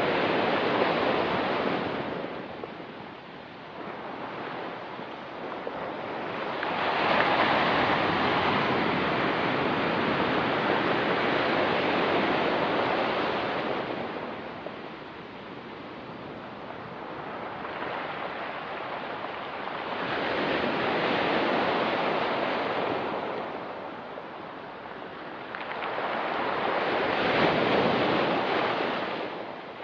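Ocean surf washing onto a rocky beach, rising and falling in slow surges as each wave comes in, four times over, the second the longest.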